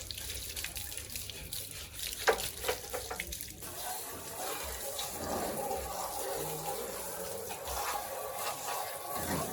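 Water running and splashing steadily, with a few clicks and one sharp knock in the first few seconds.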